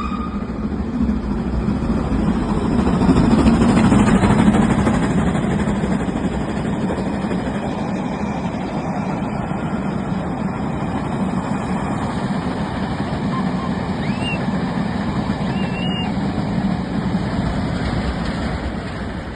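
Train running through the station: a steady low rumble of rail and engine noise that swells about three to four seconds in, then holds steady.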